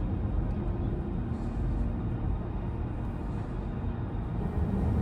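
Electric BMW i5 M60 accelerating at full throttle, heard from inside the cabin: a steady road and tyre rumble with a faint hum, growing louder near the end.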